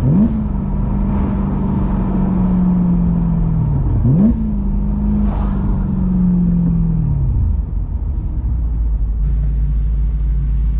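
BMW E93 M3's V8 engine revving: two quick throttle blips about four seconds apart, each followed by the engine note slowly falling, as when downshifting while slowing. It settles to a low steady rumble near the end.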